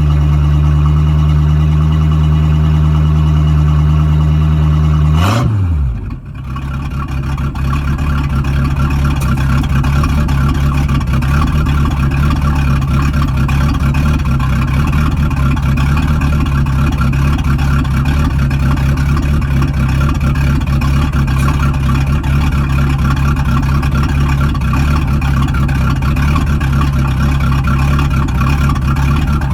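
Boat's inboard engine with a sterndrive running out of the water, started for the first time in three weeks after a drive rebuild with a new gimbal bearing, U-joints and exhaust bellows. Its pitch falls and the sound dips briefly about five seconds in, then it runs on steadily with a rougher, more uneven note.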